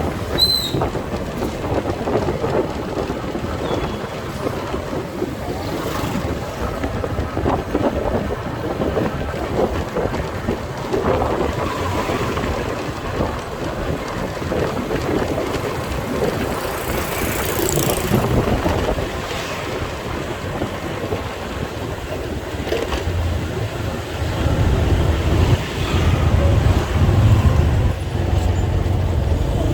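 Motorcycle riding through city traffic: a steady road and engine din with wind buffeting the microphone. A brief high chirp comes near the start, and the low rumble grows louder about three-quarters of the way through.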